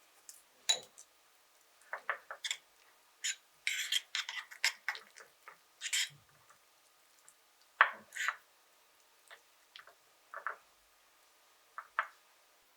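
A spoon clinking and scraping against a bowl in short, irregular strokes, with brief pauses between them.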